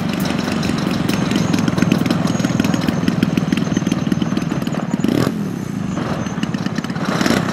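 Model airplane engine running steadily with a fast pulsing note. It swells twice with a brief rushing sound, about five seconds in and again near the end.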